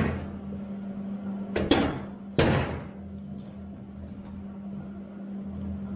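Sharp metal clanks from steel tubing being handled and set down: one at the start, two close together about a second and a half in, and the loudest about two and a half seconds in with a short ring, over a steady low hum.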